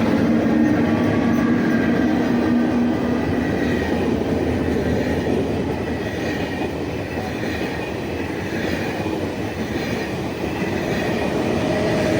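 A train running on the rails: a steady rumble of wheels with faint higher tones, easing a little in the middle and building again near the end.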